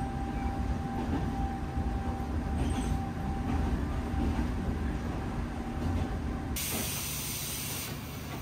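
Local train's running rumble with a steady whine as it rolls to a stop; the whine cuts off about six and a half seconds in. A loud hiss of compressed air follows, lasting just over a second, as the pneumatic doors open.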